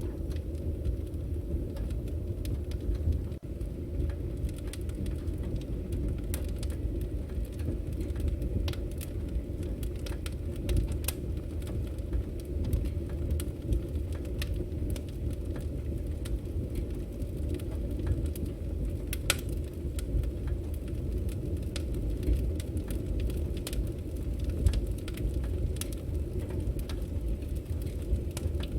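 Firewood burning: a steady low rumble of the flames with frequent, irregular sharp crackles and pops from the logs.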